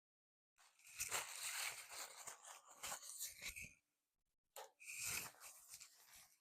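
Close-up crunchy, crackling eating sounds from a fast-food meal of burger, wrap and fries, in two stretches, the second shorter.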